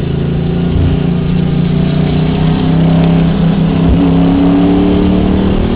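Enduro race car's engine heard from inside the cabin, running hard under load. Its pitch climbs gradually through the second half as the car accelerates.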